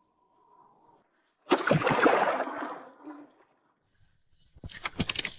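Water sound effect: a wash of sea water or a splash against a boat, starting suddenly about a second and a half in and dying away over a second or so, followed near the end by a quick run of sharp clicks.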